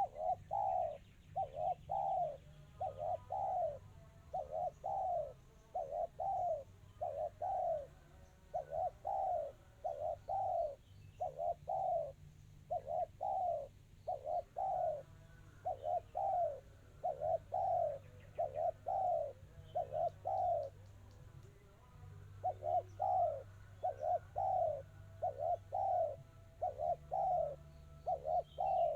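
Spotted dove (tekukur) cooing over and over in quick, tightly spaced phrases of short notes, mostly paired, with a brief pause about 21 seconds in: the clear, fast, dense delivery that dove keepers call 'kristal rapat cepat'. A low steady hum runs underneath.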